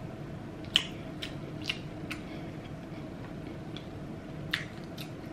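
Close-miked chewing of soft food, heard as a handful of sharp wet mouth clicks and smacks at irregular intervals over a low steady hum.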